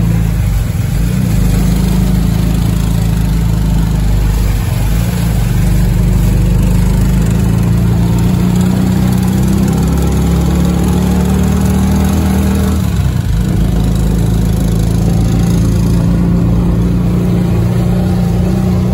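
A close-by engine of a small motorcycle-type vehicle running steadily as it drives through floodwater, with a brief dip about thirteen seconds in.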